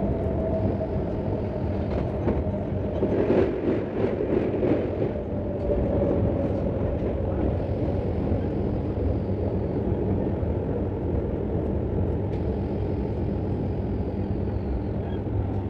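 MEMU electric multiple-unit train running at speed, heard from an open coach doorway: a steady rumble of wheels on rail, with a quick run of clacks about three to five seconds in.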